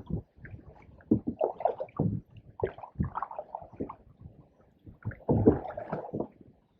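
Canoe paddling: paddle strokes splashing and swishing in the water, with a few sharp knocks and a busier burst of splashing about five seconds in.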